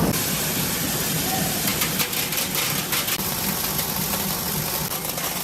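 Steady machinery hum with a few sharp clicks about two to three seconds in.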